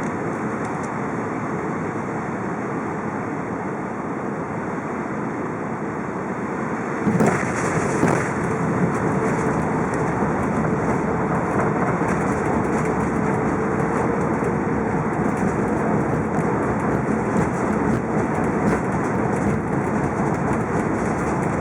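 Airbus A380 cabin noise during landing: a steady airflow and engine noise, then about seven seconds in a sudden knock and a louder, rougher rumble with rattling as the wheels touch down and the aircraft rolls along the runway.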